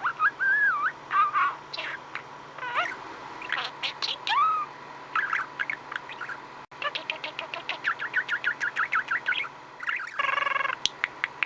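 Budgerigar chattering contentedly. It gives warbling whistled glides at first, then a fast run of short clicky chirps, several a second, and a single harsh buzzy note near the end.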